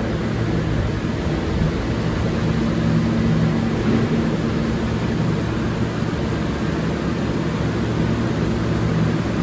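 R143 subway train running on the rails: a steady rumble of wheel and track noise with a low, even hum.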